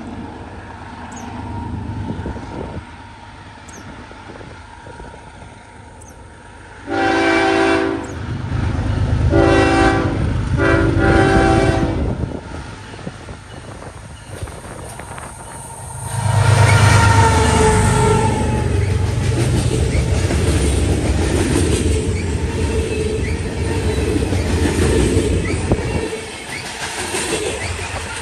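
CSX freight train: the lead locomotive's air horn sounds three blasts, the first starting about seven seconds in, then the locomotive passes close by about sixteen seconds in, its diesel engine rumbling loudly over wheel and rail noise from the cars.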